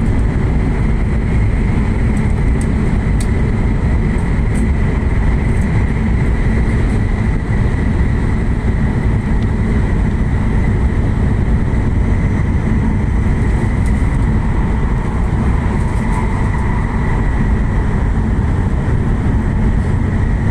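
Interior noise of a Joetsu Shinkansen train running at speed through a tunnel: a steady, heavy rumble with a faint high whine over it.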